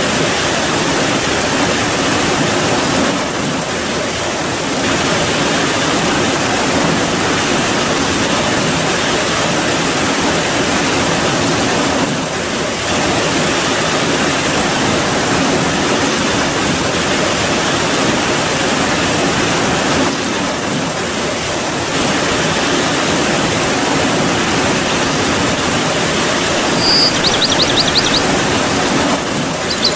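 Steady heavy rain, an even hiss that dips slightly every several seconds. Near the end a short high trill sounds twice, the second one right at the close.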